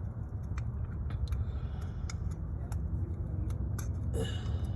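Scattered light clicks and taps of hands and tools working a brittle plastic electrical connector, over a steady low background rumble, with a short scrape about four seconds in.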